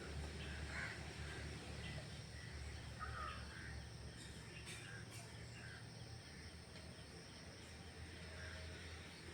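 Faint outdoor ambience with a steady low hum and a few short, scattered bird calls.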